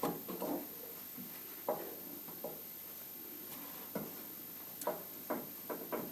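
Light, irregular clicks and knocks of gear shifter cables and their fittings being handled and positioned.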